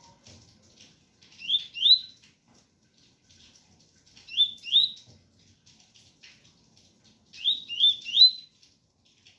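Double-collared seedeater (coleiro) singing its 'tui-tui' song: three short phrases, each of two or three quick rising whistled notes, spaced about three seconds apart, over a faint patter of rain.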